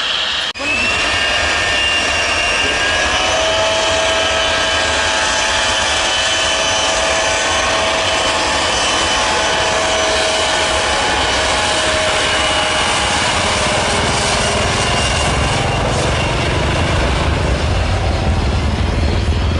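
Jet airliner engines running with a steady high whine of several fixed tones over a rushing noise, and a low rumble that builds over the last few seconds.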